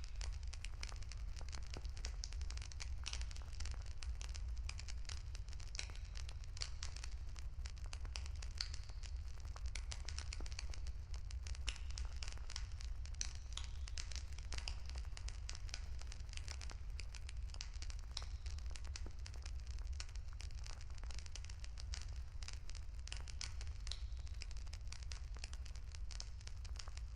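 Campfire crackling: a dense, irregular run of small pops and snaps over a steady low rumble.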